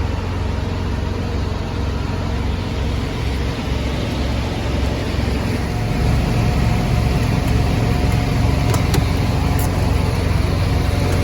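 Diesel truck engine idling: a steady, loud low rumble with an even pulse, and a faint steady whine joining about halfway through.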